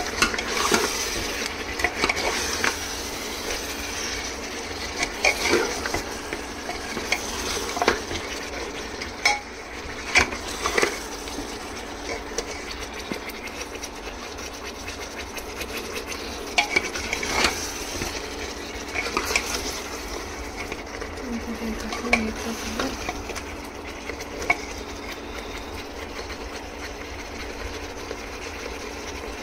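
Mutton frying in oil and masala in a pot, sizzling steadily while a spoon stirs it, with short clinks and scrapes of the spoon against the pot every few seconds, more of them in the first half. This is the bhuna stage, browning the meat until the oil separates.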